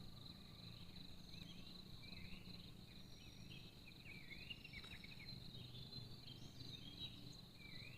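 Faint forest ambience: a steady high-pitched insect drone, with many short chirping calls scattered through it over a low hum.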